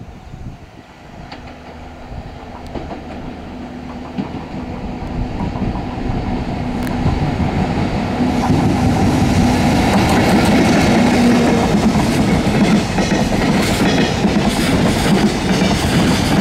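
JR Freight EF64 1000-series DC electric locomotive hauling a container freight train, approaching and growing steadily louder with a steady hum, and passing close about eight seconds in. The container flat wagons then roll by with loud running noise and repeated clacks of wheels over the rail joints.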